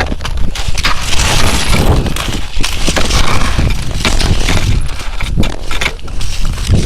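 Irregular crunching of crusted snow underfoot, a rapid crackle of breaking crust, over a constant low rumble.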